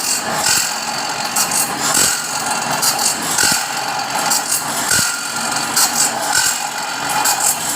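Sawmill machinery running steadily, with irregular metallic rattling, clatter and occasional sharp knocks.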